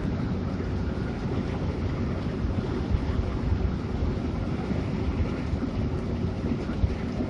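Hino RK8 bus on the move: a steady low rumble of engine and road noise with wind noise over it.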